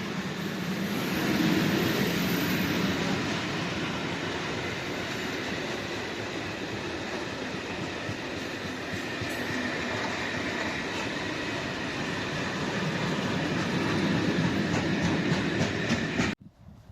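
Freight train hauled by an ET42 electric locomotive rolling past, a steady noise of wagon wheels on the rails with a few clacks in the middle; it cuts off abruptly near the end.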